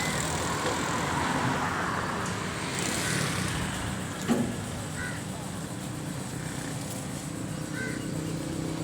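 Ford 4610 tractor engine running steadily at idle, with a brief knock about four seconds in.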